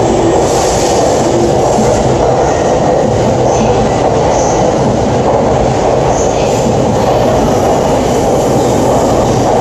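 Electric commuter train running along a station platform: a loud, steady rumble of wheels on rail, with a few brief high wheel squeaks.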